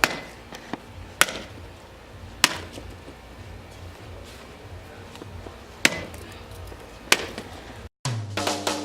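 Metal bat striking a watermelon five times, each a sharp whack, with a few smaller knocks in between. Music comes in near the end.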